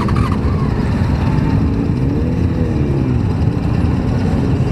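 Motorcycle engines running in a dense low rumble, with one engine's pitch rising and falling about two seconds in.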